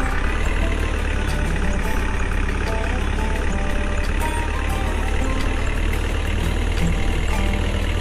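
A small tractor engine running steadily, a constant low rumble with no change in speed.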